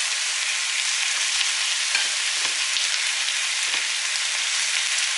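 Diced onion and garlic sizzling in hot oil in a stainless steel pan as browned chicken drumsticks are laid in one by one: a steady frying hiss with a few faint soft knocks as pieces go in.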